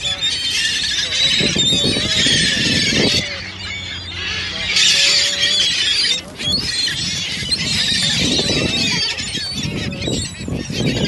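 A flock of small birds chirping and chattering while feeding, many overlapping high calls at once. Several short, lower bursts of sound break in now and then.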